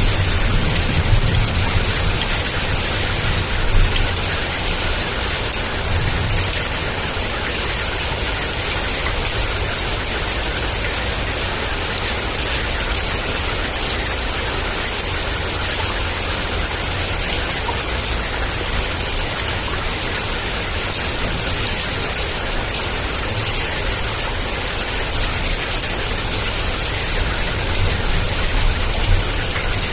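Heavy rain pouring steadily, a dense even hiss, with a low rumble of thunder that is strongest in the first few seconds and again near the end.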